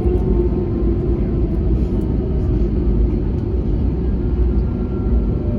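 Airbus A321neo cabin noise from its Pratt & Whitney PW1100G geared turbofan engines: a steady low rumble with engine whine tones running through it. A new, higher whine tone comes in near the end.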